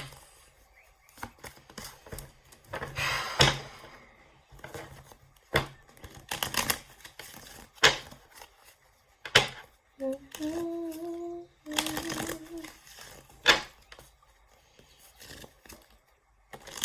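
A deck of reading cards being shuffled by hand: a series of sharp snaps and slaps, with a longer riffling rustle about three seconds in. A person hums a few steady notes briefly about ten seconds in.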